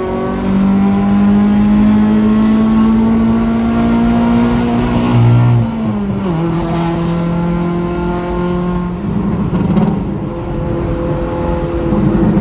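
Proton Waja's Mitsubishi 4G18 four-cylinder engine running through a custom full-piping exhaust with a remapped ECU. The engine note climbs steadily for about five seconds, drops sharply, holds lower, turns rough for a moment, then picks up again near the end.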